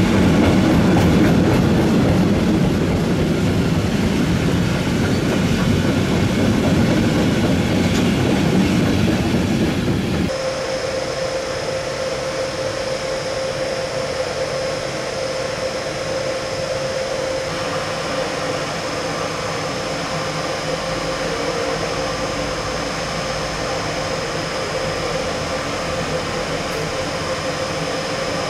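A freight train of covered sliding-wall wagons rolling past with a loud, steady rumble. About ten seconds in this cuts off abruptly, and an ÖBB Taurus electric locomotive in Railjet livery stands at idle with a steady electrical hum and a high whine.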